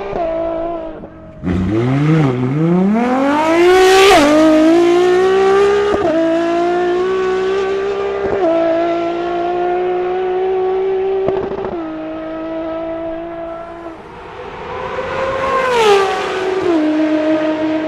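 High-revving Ferrari engine accelerating hard through the gears: its pitch climbs and then drops sharply at each quick gear change, about four shifts in a row, with a further swell and drop near the end.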